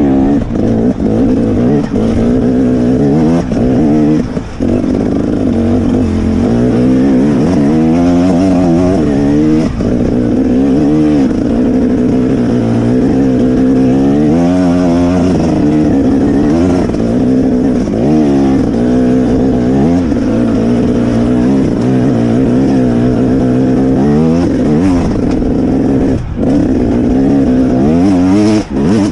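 Off-road dirt bike engines revving hard, the pitch climbing and dropping again and again as the riders accelerate and shift through the gears.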